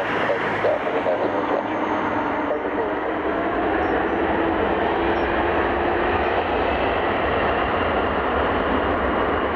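Jet airliner engines running with a steady, loud noise, a low rumble growing stronger about six seconds in.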